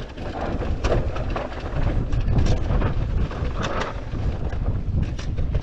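Wind buffeting the microphone while a mountain bike rolls along a dirt trail, a steady low rumble with scattered short clicks and rattles.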